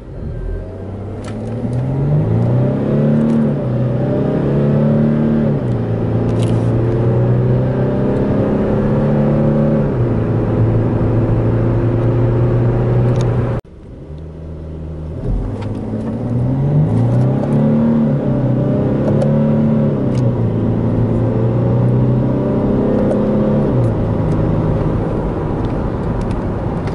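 Infiniti QX70S's 3.0-litre V6 turbodiesel accelerating hard, its engine note climbing and dropping back at each upshift of the automatic gearbox before settling at a steady pitch. After a sudden cut about halfway, a second acceleration run follows the same pattern.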